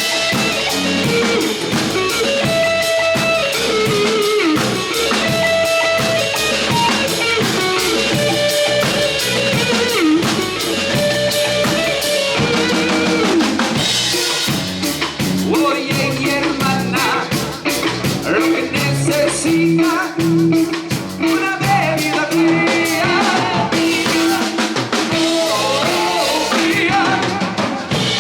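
Live band playing psychedelic cumbia: a drum kit keeps a steady beat with rimshots and bass drum under a melody line.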